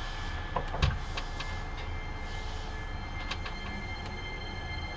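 Inside a Hankyu 9300 series electric train: a steady low rumble with a few sharp clicks and one louder knock about a second in.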